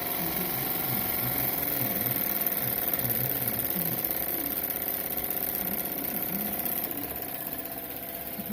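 Jensen Model No. 10 live-steam toy power plant running, a steady fast mechanical clatter.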